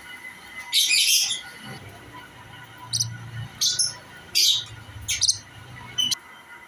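Lovebirds calling: about six short, shrill, harsh chirps in irregular bursts, the loudest about a second in and again midway.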